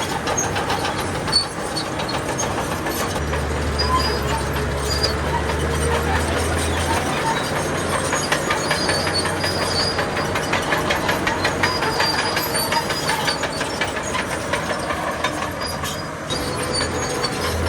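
Diesel engine of heavy earthmoving machinery running, with a steady rapid metallic clatter; the low engine drone grows louder for a few seconds about three seconds in.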